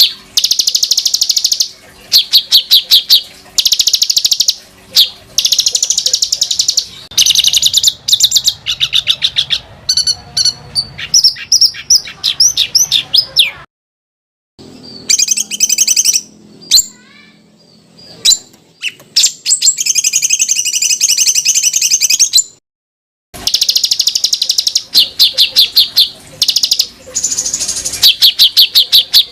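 Songbird song for tutoring competition birds: fast, tight rolls and harsh chattering trills of rapidly repeated high notes. The song comes in spliced segments, cutting to dead silence about 14 seconds in and again near 23 seconds.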